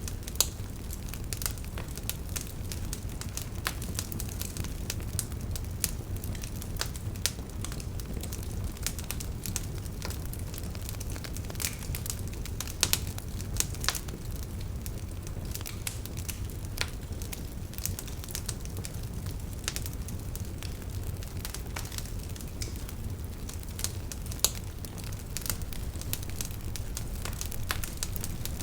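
Wood campfire crackling with irregular sharp pops, a few of them loud, over a steady low rush of river water.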